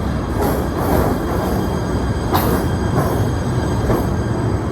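PATH train running through the underground station: a steady low rumble of wheels on rail, with sharp metallic clanks about once a second.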